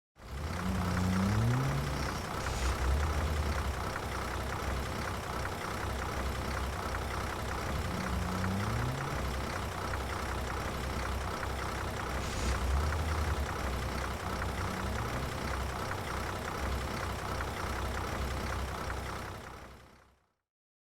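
Steady interstate traffic with heavy trucks: a continuous rush of tyre and engine noise over a low diesel rumble. Three times, a truck engine rises in pitch as it accelerates. The sound fades out at the end.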